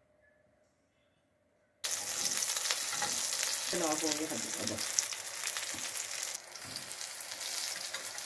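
Shami kababs shallow-frying in oil on a flat griddle, a steady sizzle that starts abruptly about two seconds in after near silence, with small clicks scattered through it.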